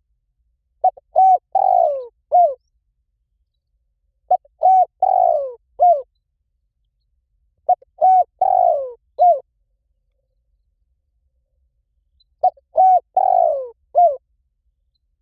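Spotted dove cooing in four phrases a few seconds apart. Each phrase is a quick run of short coos with one longer, falling coo in the middle.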